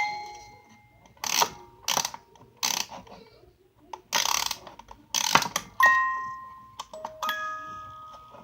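Small toy box being opened and handled, with several short clattering knocks and a few clear bell-like notes at different pitches that each ring out and fade.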